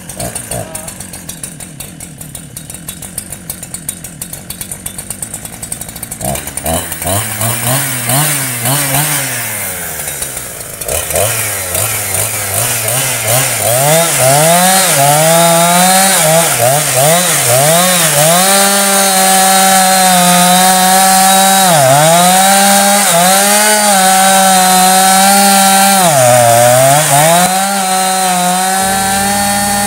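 Ogawa Pro VX8224 two-stroke chainsaw idling unevenly, then revved up and down a few times. It is then held at full throttle as the chain cuts into a large tree stump, its pitch sagging briefly twice under load.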